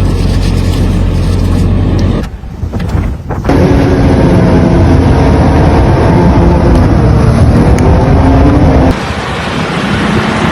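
Car engine sound in abrupt cuts: a steady low hum, a short break about two seconds in, then an engine held at steady high revs until about nine seconds in.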